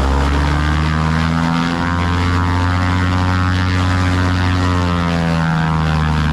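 Cessna 185 Skywagon's six-cylinder piston engine and propeller running steadily under power, with its pitch dipping slightly twice.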